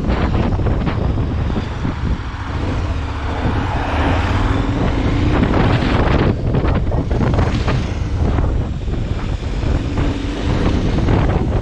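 Heavy wind buffeting on the microphone over the running noise of a moving vehicle, with a faint engine tone rising and falling twice.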